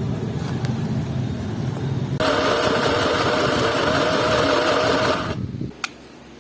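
A small motor running: a low rumble that gets louder, with a steady hum, about two seconds in, then stops shortly before the end.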